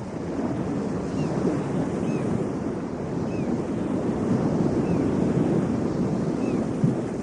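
Ocean surf rushing steadily on the shore, a dense wash of noise that swells gently without distinct breaks.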